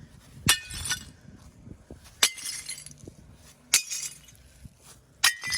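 Four sharp clinks about a second and a half apart, each with a brief ringing tail, like hard objects striking each other.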